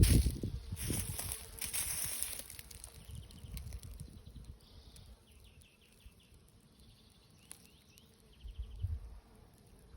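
Songbirds in a spring forest giving short, faint trills of rapid high notes, several times. A low rumbling noise on the microphone is the loudest sound at the start, with a brief low thump near the end.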